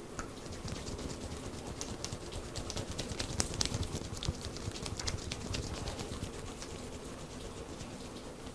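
Rain pattering with dense, irregular close ticks and taps from hands massaging the head, a few sharper ticks about three to four seconds in.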